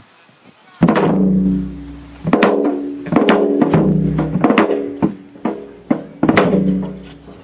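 Korean traditional folk music in the gutgeori rhythm starting up: heavy drum strokes that ring out over sustained pitched instrument tones, beginning about a second in and repeating in a lilting, uneven pattern.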